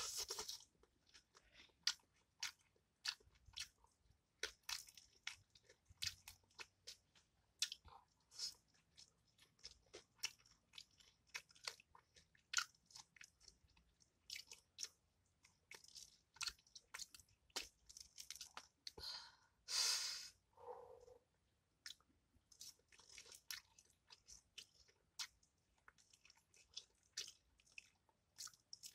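Close-up eating sounds: irregular crunching, biting and chewing of crispy, hard-fried fish. About twenty seconds in there is one longer, louder rush of noise.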